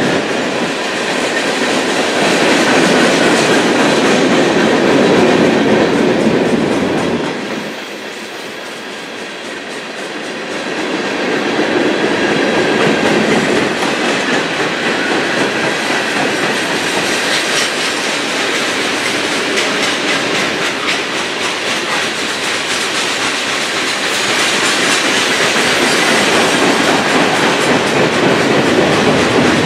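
CSX freight train's cars rolling past with a continuous rail noise that briefly drops in loudness about eight seconds in, then builds again.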